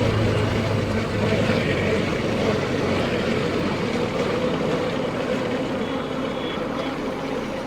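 KTM Duke 250's single-cylinder engine running steadily, with road and wind noise.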